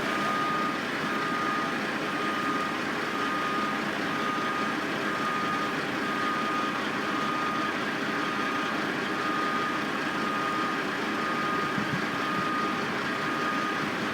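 A construction vehicle's reversing alarm sounding a run of long, repeated beeps over the steady running of heavy machinery engines.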